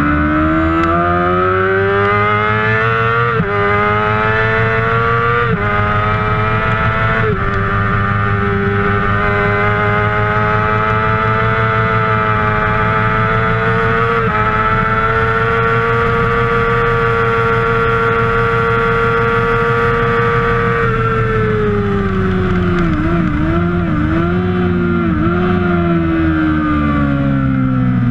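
A Kawasaki 600cc supersport racing motorcycle's inline-four engine at high revs. It climbs in pitch with brief breaks at the gear changes and holds a high steady note for several seconds, flat out. Then the pitch falls in a few wavering dips as the bike slows.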